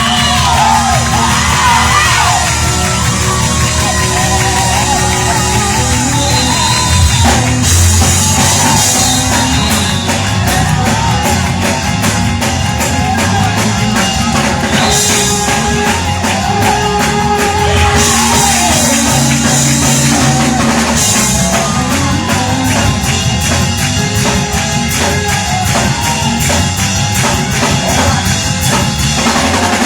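Loud live gospel music: a band with drum kit and bass plays a driving beat while voices sing and shout over it.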